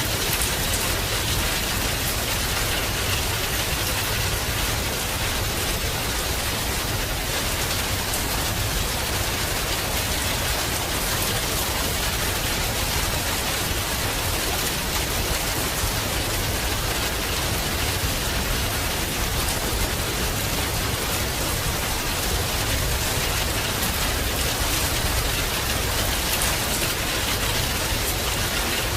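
Heavy rain falling steadily as an even, unbroken hiss with a low rumble underneath.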